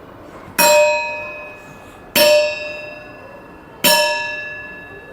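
A struck metal bell-like instrument rings out three times, about one and a half seconds apart. Each stroke is sharp and then fades slowly. The strokes are being counted off one by one for the children to count.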